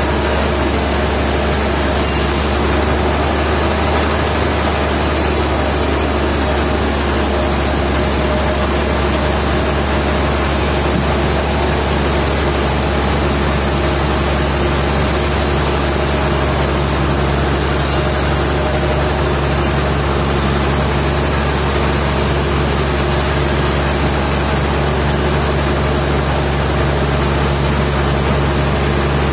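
Sawmill machinery running steadily with a constant loud engine drone and hum, with no change in pitch or level.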